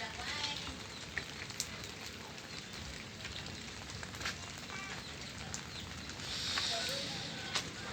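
Light drizzle falling steadily, with scattered drips landing one by one, and a few short chirps from a bird.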